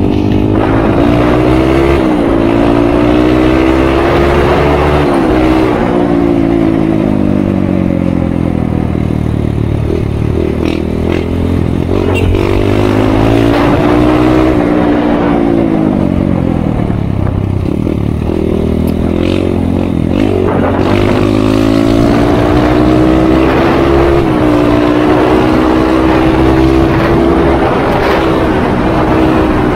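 Kawasaki KLX150's single-cylinder four-stroke engine running under way, its pitch dropping and climbing again several times as the throttle is eased off and opened.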